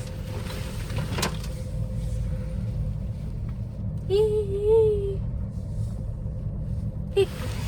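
Steady low rumble of a gondola cabin riding up its cable. About four seconds in, a person makes a short voiced sound with a rising and falling pitch.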